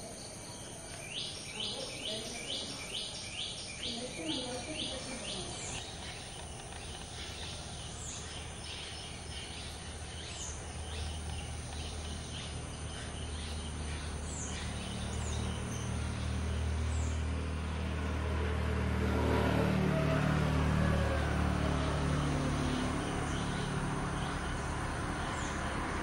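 Birds calling outdoors: a quick run of repeated chirps, then thin, high down-slurred notes every couple of seconds. Past the middle, a motor vehicle goes by, its engine hum swelling to become the loudest sound and then easing off.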